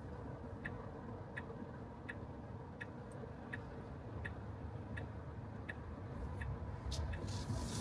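Tesla Model 3 turn-signal indicator ticking evenly, about three ticks every two seconds, over the low hum of the car rolling. Near the end the tyre and road noise grows louder.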